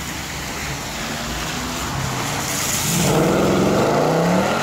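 Mercedes-Benz C-Class estate pulling away on a wet road. The engine runs low at first, then accelerates hard about three seconds in with a loud, rising note over the hiss of tyres on wet asphalt.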